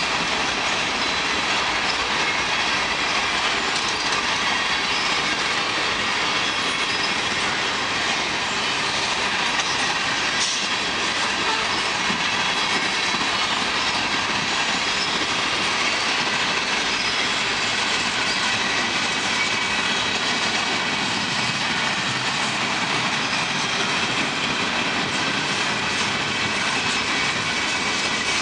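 Freight cars of a long manifest train rolling past steadily, with the clatter of wheels over the rails and a faint, steady wheel squeal.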